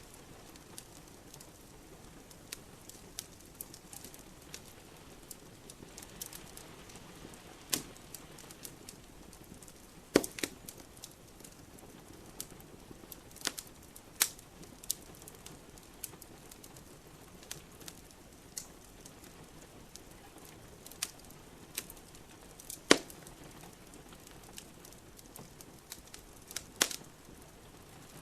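Wood fire crackling in a fireplace: irregular sharp pops and snaps, the two loudest about ten seconds in and near twenty-three seconds, over a steady soft hiss of rain.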